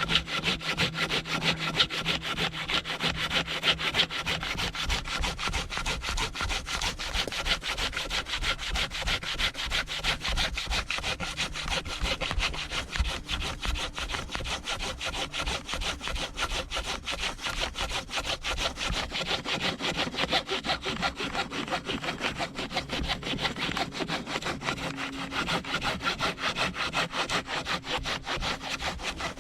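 Silky Zubat curved pruning saw cutting by hand through a thick fallen log, about 10 inches across, in a steady, unbroken run of rapid back-and-forth strokes with the teeth rasping through the wood.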